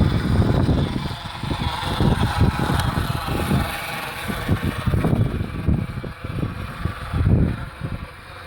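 Wind buffeting the microphone outdoors: uneven low rumbling gusts that ease off near the end.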